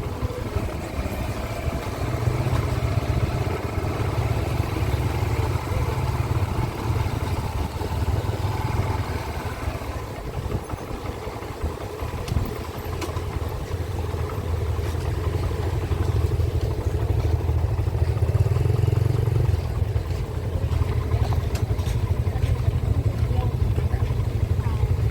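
Small-displacement motorcycle engine running steadily while riding, with a heavy low rumble from wind on the microphone.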